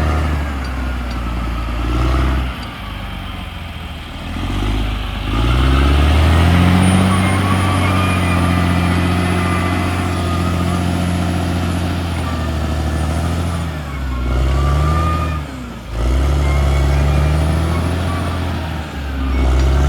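CAT D6R XL bulldozer's diesel engine working under load, its note rising and falling as it revs, with a faint high whine over it for a few seconds midway. The engine note slackens briefly a few times.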